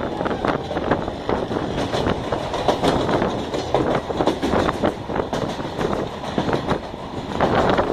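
Passenger train running along the track, heard from aboard a carriage: a steady rumble of wheels on rails with continual irregular clatter and knocking.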